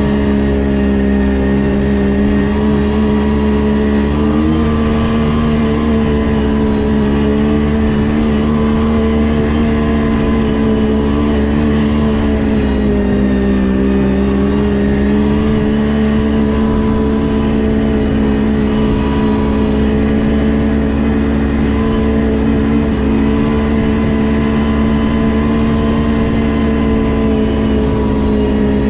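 Snowmobile engine running at a steady cruising speed. Its pitch rises a little about four seconds in and dips briefly around twelve to fourteen seconds in.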